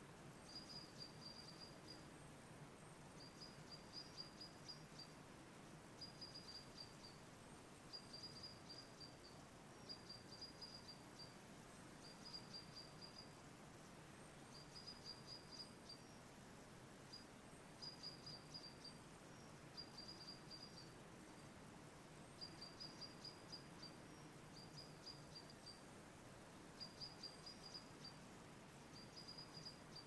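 Faint songbird song: a short, high chirping trill repeated about every two seconds, over a steady low background hum.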